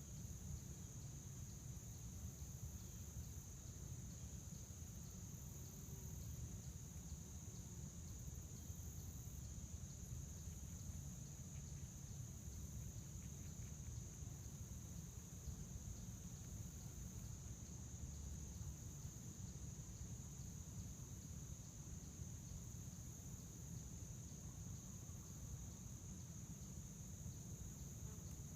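Crickets chirping in a steady, continuous high-pitched trill, with a low rumble underneath.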